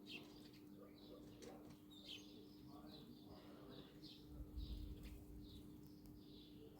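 Small birds giving faint, high chirps, two or three a second, over a steady low hum, with a brief low rumble about four and a half seconds in.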